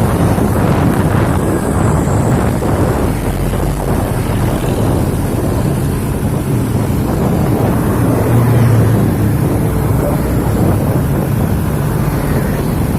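Diesel truck engine running through a loud aftermarket 'Serigala' exhaust, a steady low rumble with wind buffeting the microphone; the engine note swells slightly about two-thirds of the way through.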